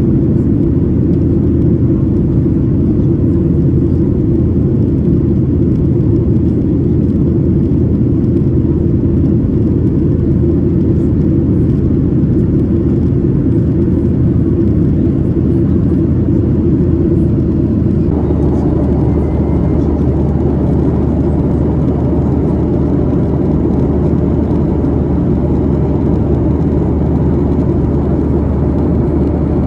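Boeing 737-800 cabin noise in flight: the steady low rumble of the jet engines and airflow. About two-thirds of the way through, the engine hum shifts to a different note and grows slightly fuller.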